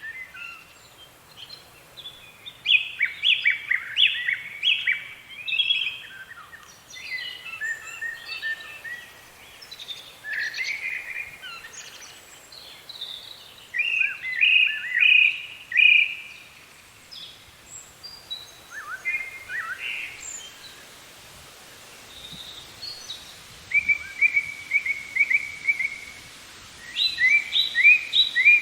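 Songbirds singing: repeated bursts of quick, chirping phrases separated by short pauses, with a run of rapid, even notes about three-quarters of the way through.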